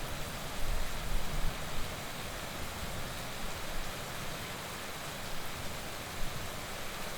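Heavy rain falling in a steady, dense hiss, with a few low rumbling surges in the first couple of seconds.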